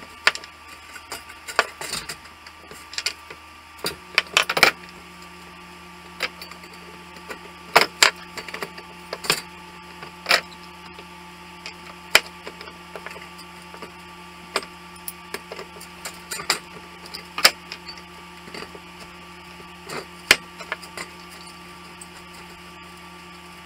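Scattered metal clicks and knocks of hand tools and loosened clamp parts on an old crosscut saw's handle fittings, over a steady hum that starts about four seconds in.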